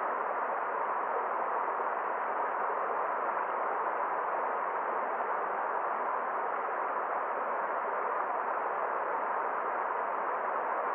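Forest stream water rushing steadily: an even, unbroken hiss with no changes in level.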